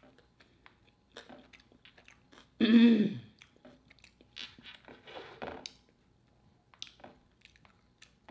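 Close-miked chewing of food, with faint crunches and small wet mouth clicks scattered through. A short voiced sound falling in pitch, the loudest thing, comes about three seconds in.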